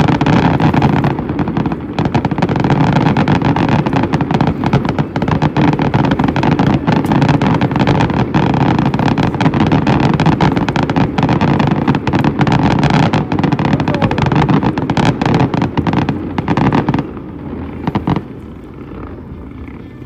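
Fireworks going off in a rapid, continuous barrage of bangs and crackles. It stops abruptly near the end, with one short burst after.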